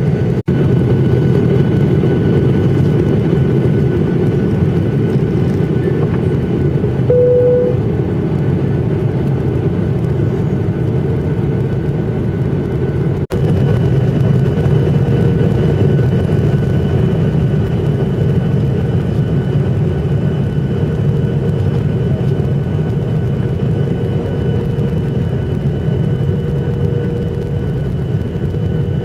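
Steady cabin noise of a jet airliner in flight: a heavy engine and airflow rumble with a faint high whine over it. A short beep sounds about seven seconds in, and the sound drops out for an instant twice.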